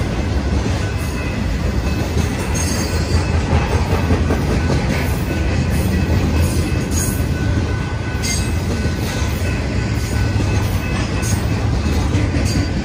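A train rolling past on the rails: a steady heavy rumble of railcars and wheels, with a thin high wheel squeal and scattered clicks of wheels over rail joints.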